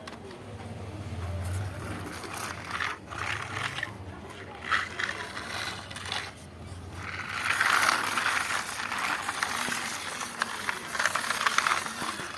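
Toy tractor and trolley rattling and scraping as they move, with a clicking like small gears, loudest in the second half.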